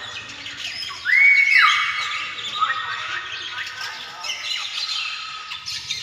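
Several birds calling over one another: squawks and whistled calls that slide up and down in pitch. The loudest comes about a second in, a call that rises, holds briefly and then falls away.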